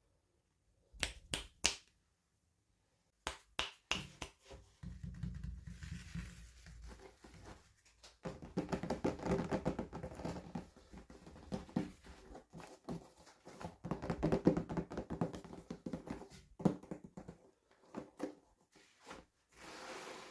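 Hands unboxing small plastic toys: a few sharp clicks about a second in, then a long stretch of crackling, scraping and tapping of plastic packaging, easing off near the end.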